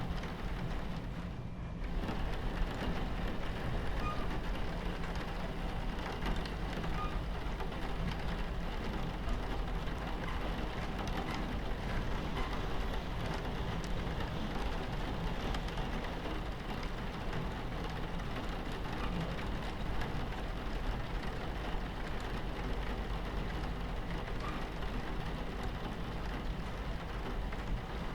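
Steady rain pattering on a train carriage window over the low, continuous rumble of the train running on its tracks.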